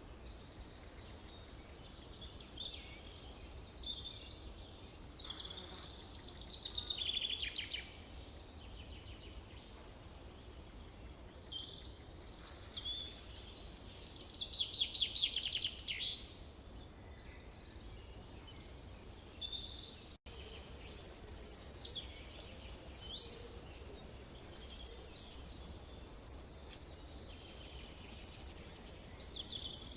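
Forest birdsong: several birds chirping and calling over a faint steady background hiss, with two louder rapid trills about six and fourteen seconds in.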